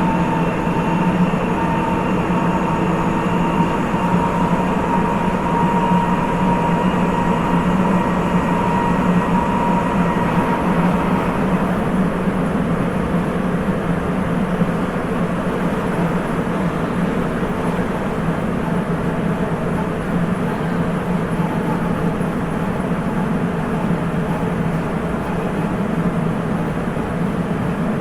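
Sapporo Municipal Subway 8000 series rubber-tyred train with Hitachi IGBT inverter running between stations, heard from inside the car: a steady running rumble with a thin electric inverter whine that fades away about ten seconds in.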